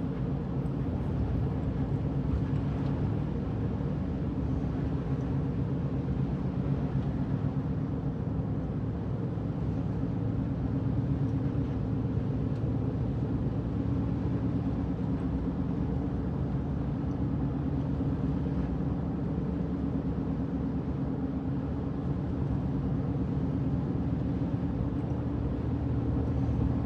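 Steady in-cabin road noise from a four-wheel-drive vehicle driving on a snow-covered interstate: a low engine and drivetrain hum under an even tyre rush.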